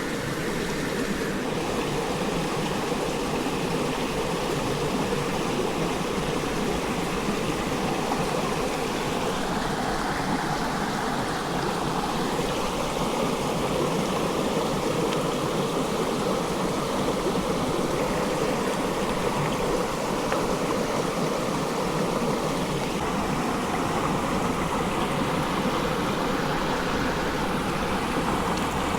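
Stream water running in a steady rush, its tone shifting slightly now and then.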